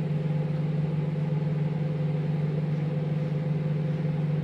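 Microwave oven running with a steady hum, heating a bowl of porridge on its turntable.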